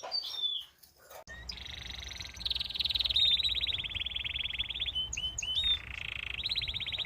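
Caged European goldfinches singing: long, fast rattling trills, broken by a few short chirps, starting after a brief pause about a second in.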